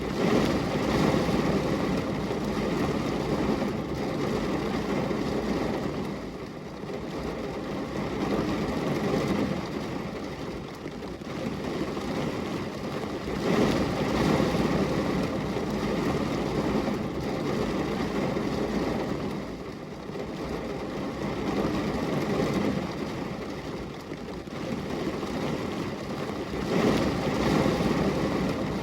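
Steady rain ambience used as white noise: a continuous rushing hiss, heaviest in its lower range, that swells and eases every six seconds or so.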